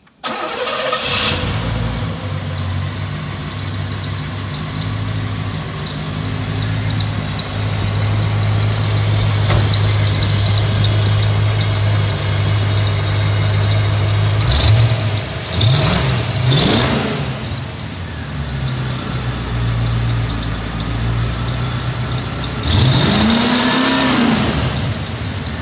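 A 1987 Corvette's 5.7-litre L98 tuned-port V8, which the seller believes has a mild camshaft and aftermarket exhaust, starts and settles into a steady idle. It is revved by hand at the throttle linkage: a few quick blips about 15 to 17 seconds in and one longer rev near the end.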